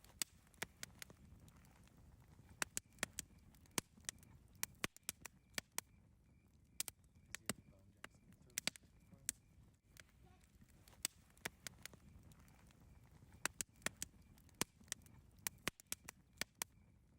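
Campfire crackling: irregular sharp pops and snaps of burning wood, several a second, over a low steady rumble of the flames.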